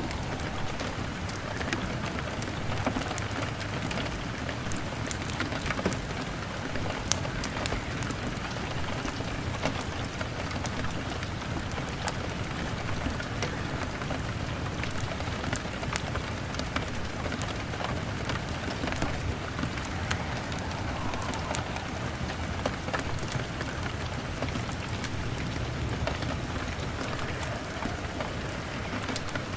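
Steady rain pattering on window glass, with scattered sharp crackles and pops from a wood fire throughout.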